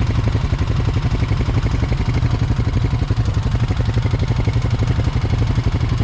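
Four-wheeler (ATV) engine running steadily close by, with an even beat and no revving.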